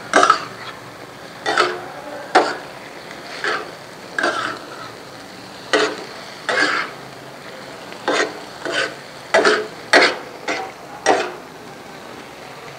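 Chicken liver pieces sizzling in oil on an iron tawa. A spatula scrapes and stirs them in short strokes that come irregularly, about once a second.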